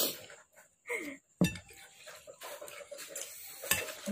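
Fork clinking against dishware while eating noodles: three sharp clinks, the loudest about a second and a half in, with a short falling tone just before it.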